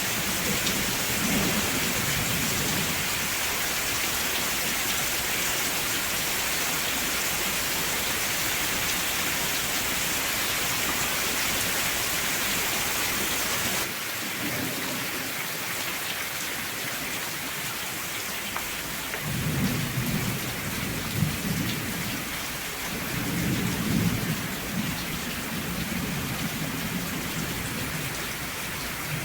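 Steady rain with thunder: low rumbles roll in near the start and again through the last third. About halfway through the rain abruptly turns a little quieter and different in character.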